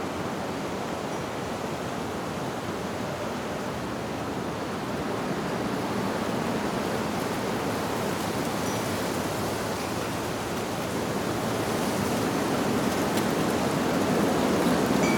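Wind rushing steadily through tree leaves, slowly swelling louder, with a faint tinkle of wind chimes about nine seconds in.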